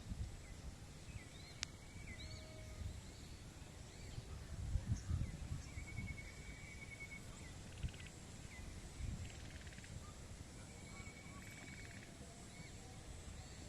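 Several small birds chirping and trilling: short rising-and-falling chirps, repeated dry trills, and a few buzzy calls. Faint low rumbles come and go underneath, strongest about five seconds in.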